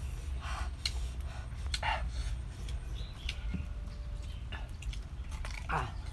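Close mouth noises of eating with the fingers: chewing and lip smacks, with scattered sharp clicks and short breaths, and a brief falling vocal sound near the end.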